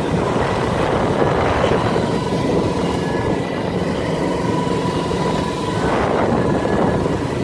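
Motorboat engine running steadily under way, a steady whine over a loud rushing noise.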